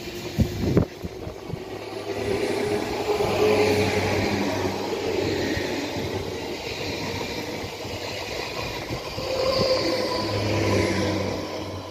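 Z 20500 (Z2N) double-deck electric multiple unit running past along the platform: a steady rush of wheels on rail, with faint tones that rise and fall over it, strongest about ten seconds in.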